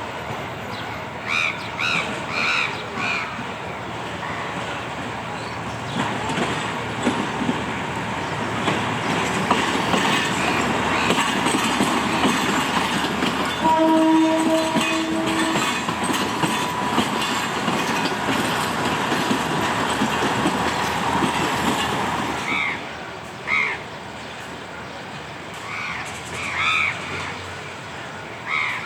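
A train passing close by, its wheels clattering over the rail joints, building to its loudest midway and then falling away. Its horn sounds once for about two seconds in the middle of the pass.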